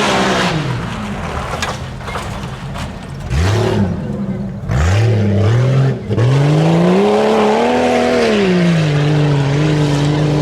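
Tuff-truck engine revving hard under throttle on a dirt course. Its pitch rises and falls again and again, with brief drops about three and five seconds in, then a long climb and fall, and it holds a steadier high drone near the end.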